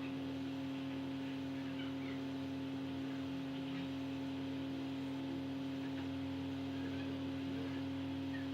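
Steady electrical hum with a constant low tone and several fainter steady overtones, with faint brief high chirps now and then.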